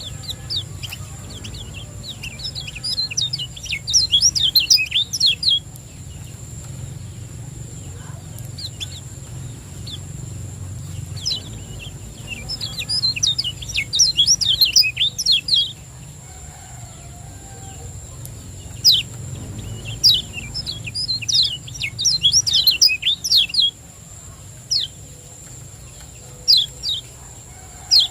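Kecial kuning (yellow white-eye) singing in three bursts of rapid, high chirping phrases, with single sharp notes between them. A steady high-pitched whine runs underneath.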